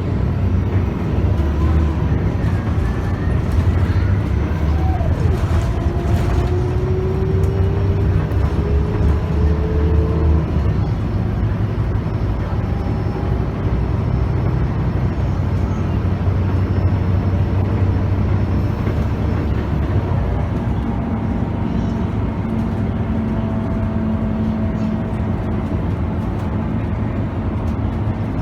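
Scania K280UB bus heard from inside the cabin, its 9.3-litre five-cylinder diesel running under way through a ZF Ecomat automatic gearbox. A whine rises in pitch between about five and ten seconds in as the bus accelerates.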